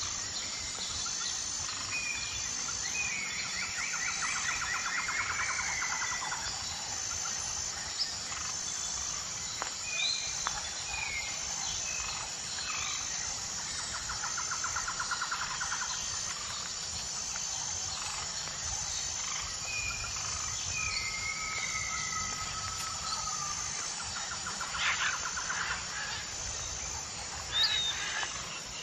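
Several songbirds singing, with buzzy trilled phrases and short whistled notes and a sharp chirp near the end that is the loudest call. Under them a faint, high, even note pulses about once a second.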